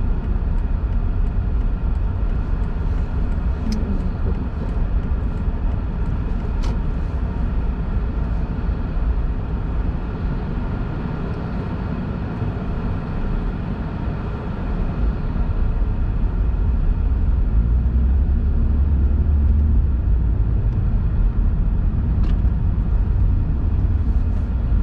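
Steady road and engine rumble of a car heard from inside the cabin while driving, growing louder about two-thirds of the way through.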